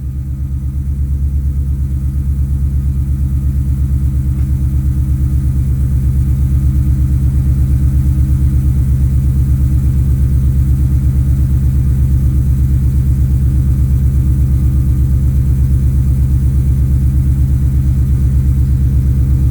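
Ford Coyote 5.0 V8 idling steadily through long-tube headers, a Magnaflow muffler and two 3-inch Vibrant resonators, with an even low exhaust pulse. It gets a little louder in the first second or two, then holds steady with no revs.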